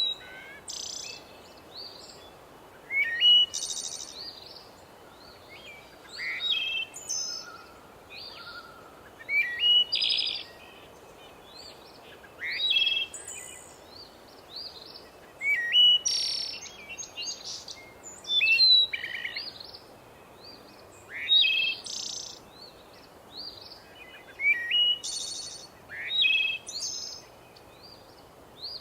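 Songbirds singing in a forest, short chirping phrases every two to three seconds over a faint steady background hiss.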